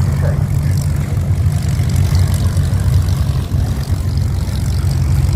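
Supermarine Spitfire V12 piston engines running at low power as the aircraft roll past on the ground, a steady low rumble.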